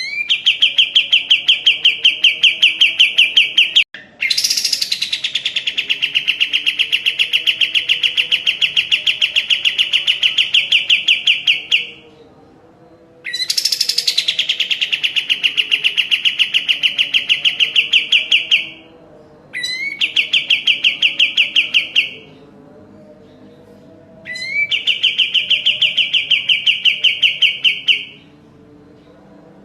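Kapas tembak songbird singing in long, rapid trills of repeated notes, in five bursts of several seconds each with short pauses between. Two of the bursts open with a high falling note.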